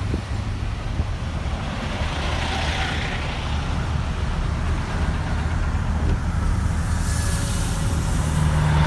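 Steady low rumble of a heavy vehicle's engine running, with hissing swells about two to three seconds in and again near the end.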